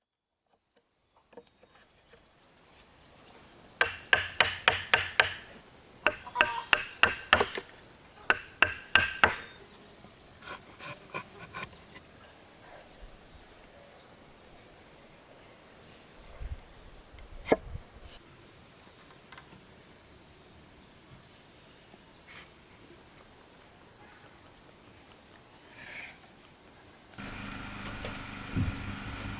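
A hammer striking nails into wood in three quick runs of five or six blows, then a few lighter taps and one last knock. Insects, crickets or cicadas, buzz steadily at a high pitch throughout.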